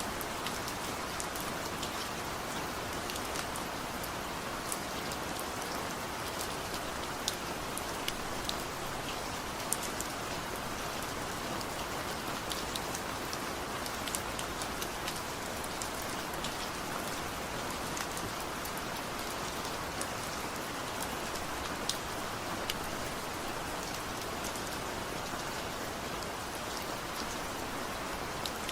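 Steady light rain falling, an even hiss with scattered individual drops ticking on a surface, no thunder.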